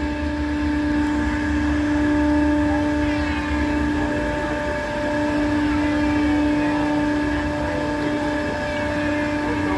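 Amusement-ride machinery of a spinning helicopter ride, running with a steady, unchanging hum over a low rumble as the car rises.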